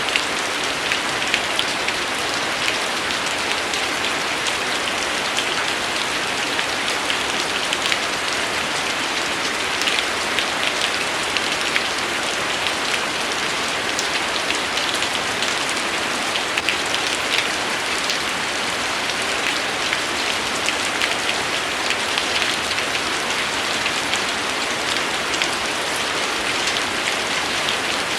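Steady, even rainfall, with many sharp individual drops ticking close by over a constant hiss.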